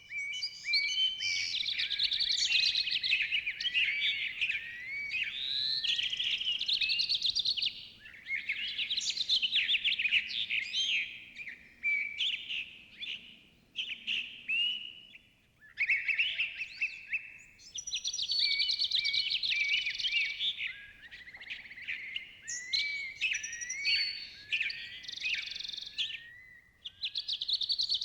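A dense chorus of many birds chirping and singing at once, with overlapping high, quickly gliding calls. They come in long bouts with brief lulls.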